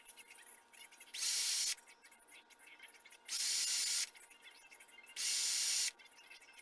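Short bursts of hissing air, each a little under a second and about two seconds apart, starting and stopping abruptly.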